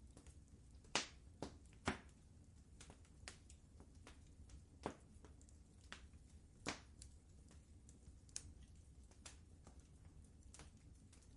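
Wood fire in a fireplace crackling: irregular sharp pops and snaps, a few louder than the rest, over a faint low rumble.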